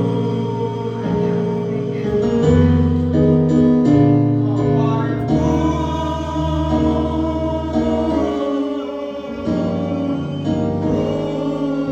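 Gospel music: a choir singing over held instrumental chords and a bass line that changes notes every second or so.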